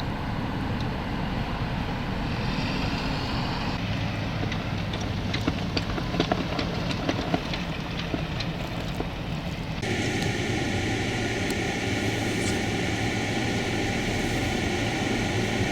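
Blizzard wind rumbling on the microphone with storm surf, changing abruptly twice between shots; scattered sharp clicks and knocks in the middle.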